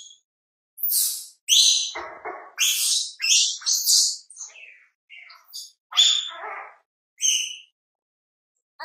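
A pet monkey giving a rapid string of short, high-pitched squeaks and shrieks, about a dozen calls, stopping shortly before the end.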